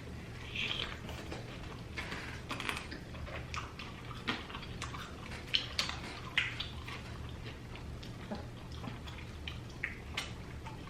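Chicken wings being eaten close to the microphone: wet chewing, lip smacks and small clicks, scattered and irregular, over a steady low hum.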